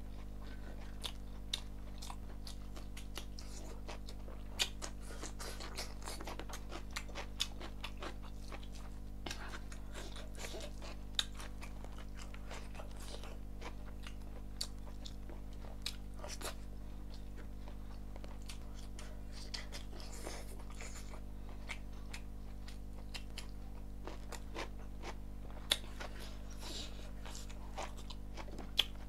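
Close-miked eating sounds of chicken and rice being eaten by hand: chewing with many short wet mouth clicks, scattered irregularly, over a steady low hum.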